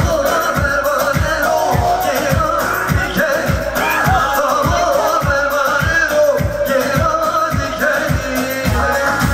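Kurdish band music: a singer and melody line over a fast, steady drum beat.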